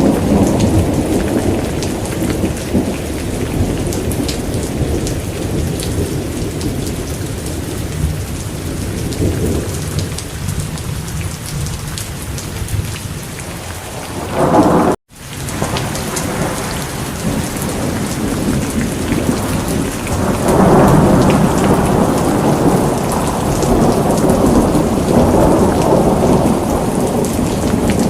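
Steady rain with rolling thunder. Low rumbles swell near the start, just before the middle and again through the last third. The sound drops out for an instant about halfway through.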